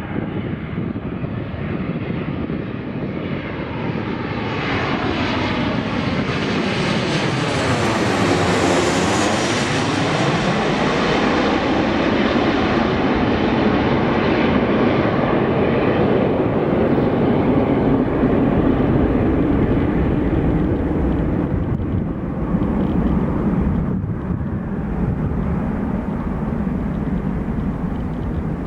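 Boeing 737-800's CFM56 jet engines passing close by on landing approach: the noise swells, sweeps through a falling-then-rising whoosh as the airliner passes closest about nine seconds in, and stays loud as it moves on down the runway, easing off slightly near the end.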